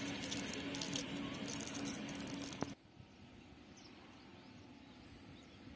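A steady rushing noise with a low hum cuts off abruptly a little under three seconds in. Quiet outdoor ambience with faint, scattered bird chirps follows.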